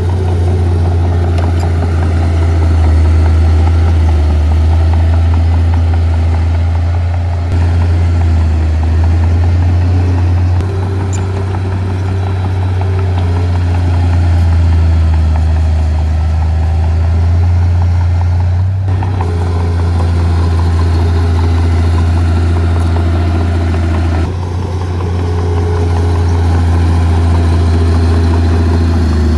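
Heavy diesel engine of earthmoving equipment running steadily with a deep hum, with a few abrupt shifts in tone along the way.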